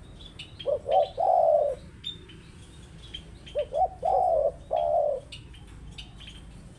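Spotted dove cooing: two phrases about three seconds apart, each a couple of short coos followed by a longer drawn-out coo. Small birds chirp faintly and high-pitched throughout.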